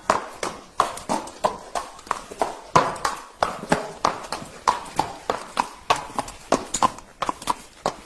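Horse's hooves clip-clopping in a steady rhythm, about three sharp strikes a second.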